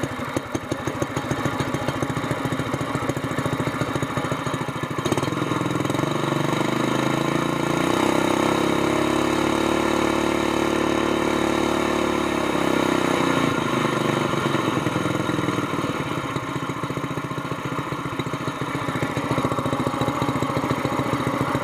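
Small single-cylinder mud motor engine (GX200 type) running through a short header pipe with a screw-in muffler, a lot quieter than an open pipe. It idles, revs up about five seconds in, holds the higher speed for several seconds, then drops back to idle.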